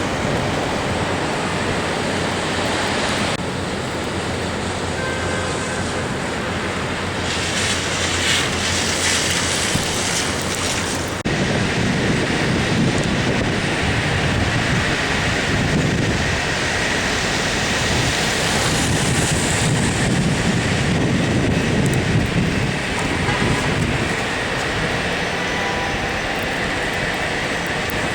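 Steady rush of storm wind buffeting the microphone, mixed with city street traffic. The sound changes abruptly about 3 and 11 seconds in, and a stronger low rumble comes in after the second change.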